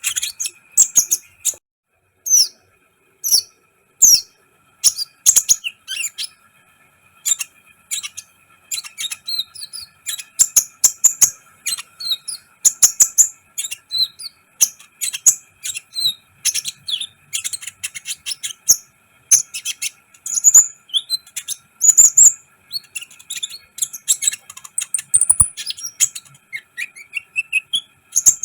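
A kolibri ninja, a sunbird, singing energetically in a rapid string of thin, high chirps, ticks and short rising squeaks, with a brief pause early on. A faint steady high hum runs underneath.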